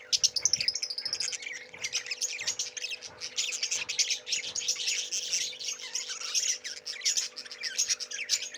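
Many small caged birds chirping and squawking at once in a dense, unbroken chatter, with a faint steady hum underneath.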